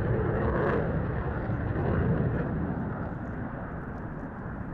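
Fixed-wing aircraft flying past, a broad rushing engine noise that is loudest over the first couple of seconds and then slowly fades.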